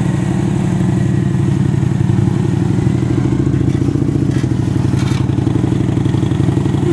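Motorcycle engine running steadily with a fast, even firing pulse, holding an even speed without revving.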